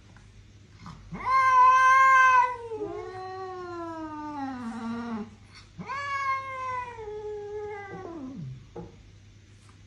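A cat yowling: two long, drawn-out meows, each sliding down in pitch as it ends. The first is the louder.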